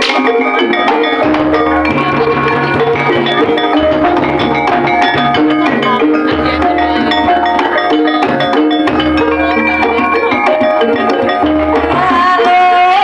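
Loud live Javanese gamelan-style music through a sound system: struck metal keyed instruments playing short ringing notes over repeated low drum beats, with a gliding voice or melody line near the end. The sound system is so loud that it overloads the recording.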